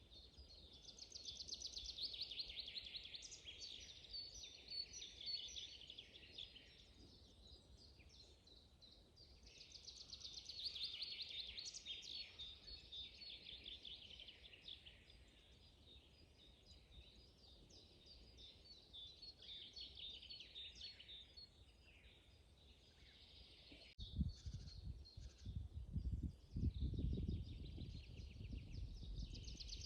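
Songbirds singing: bouts of a fast, high trilling song come back every eight or nine seconds, with fainter calls between them. About three-quarters of the way through, a low rumble joins in.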